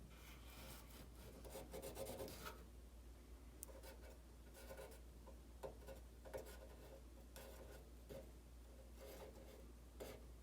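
Near silence: faint, irregular rubbing and scraping sounds over a low steady hum.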